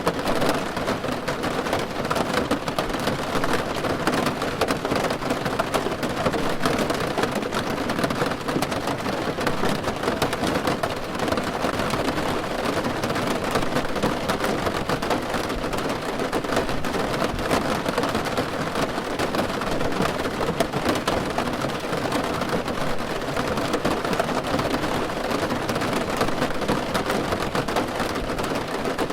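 Steady rain falling on a car roof, heard from inside the car: a dense, even patter of drops.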